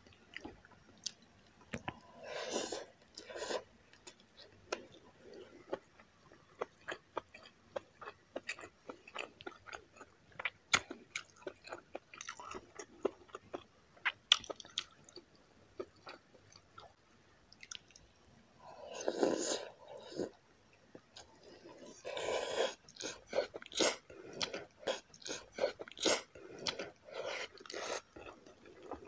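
Close-miked chewing of braised pork humba, with a dense run of wet mouth clicks and smacks. A few longer, louder sounds come near the start and twice about two-thirds of the way through.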